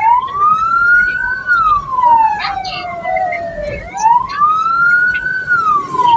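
Hearse siren in a slow wail, rising for about a second and a half, then falling for more than two seconds, and rising again about four seconds in.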